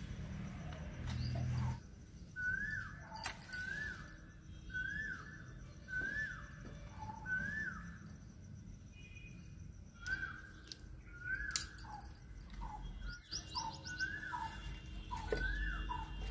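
A bird calling over and over, a short note that rises and falls, about once a second in two runs, with lower short notes between them. A couple of sharp clicks break in.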